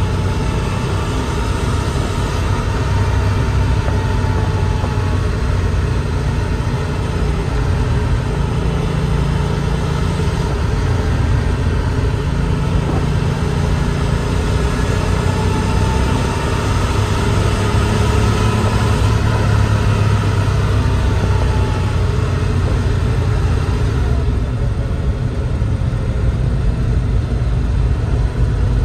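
1988 Porsche 911 Turbo's air-cooled, turbocharged flat-six running steadily under way, with tyre and road noise, heard from inside the cabin.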